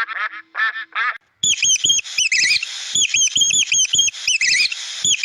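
Rapid duck quacking that breaks off about a second in. After a brief gap comes a fast run of high-pitched squeaky chirps from a small animal, with soft taps underneath.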